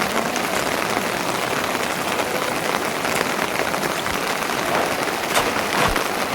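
Steady rain falling, a dense even patter of drops, with a few sharper drops or taps near the end.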